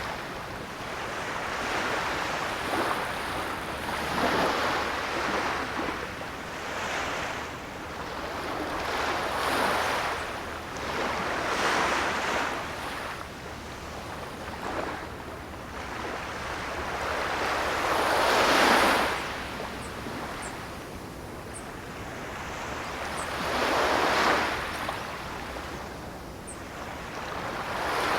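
Ocean surf: waves breaking and washing onto the shore in repeated swells, each rising and falling over a few seconds, the largest about two-thirds of the way through.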